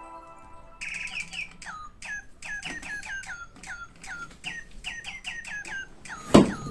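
A small bird chirping over and over, quick short calls that each drop in pitch, about four a second. Near the end there is a single loud knock.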